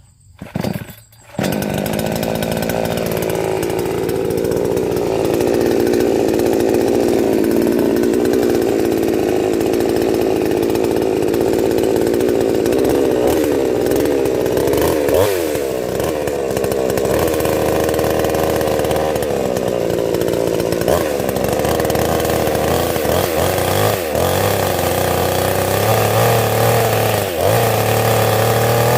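Chainsaw starting about a second in after a couple of short bursts, then running steadily at high speed, with a few brief dips in its note.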